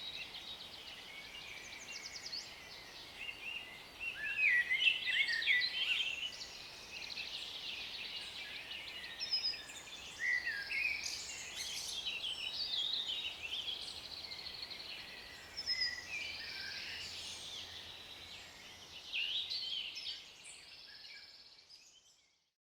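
Several songbirds singing and calling together, a busy mix of overlapping chirps and warbles, fading out near the end.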